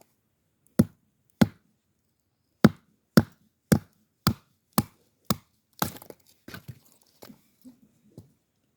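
Chopping blows on wood, about two sharp strikes a second, followed near the end by a run of lighter, quicker knocks.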